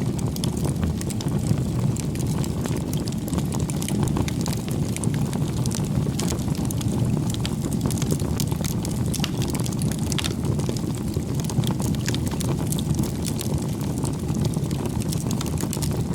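Bonfire burning with a steady low rush of flame and frequent sharp, irregular crackles and pops of burning wood.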